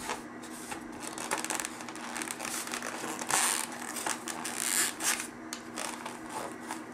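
Cardboard box and packaging rustling and scraping as a cleaning rod is worked back into it, in many short uneven strokes with a couple of louder scrapes near the middle, over a faint steady hum.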